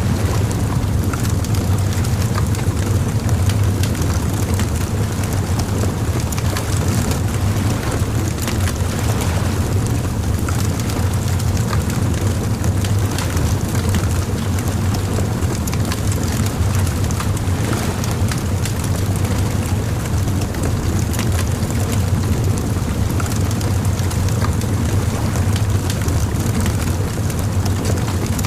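Bonfire crackling, with frequent irregular pops and snaps over a steady low rumble.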